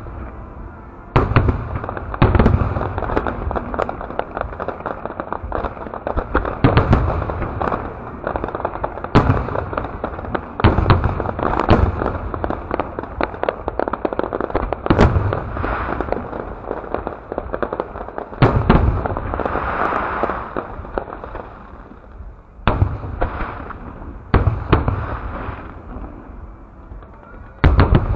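Aerial fireworks display bursting in a dense barrage: deep booms every one to four seconds, with near-continuous crackling between them.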